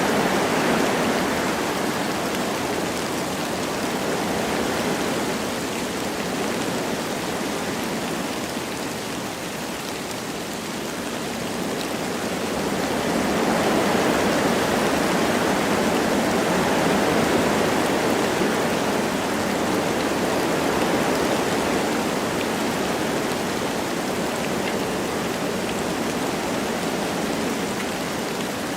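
Wind blowing through forest trees with light rain falling, a continuous hiss that swells and eases in slow gusts, stronger about halfway through.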